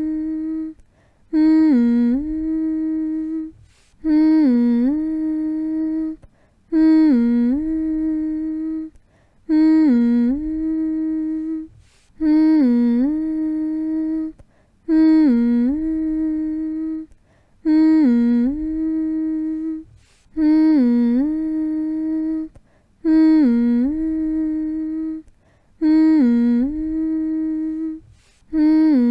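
A person humming the same phrase over and over, roughly every two and a half seconds: each phrase dips briefly in pitch, then holds one steady note, with a short gap before the next.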